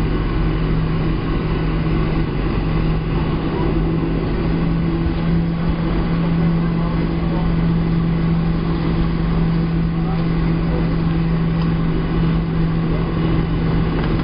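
Cabin drone of a Boeing 737-700 with its CFM56 turbofans running steadily, a strong low hum over a constant rushing noise, with no change in pitch or level.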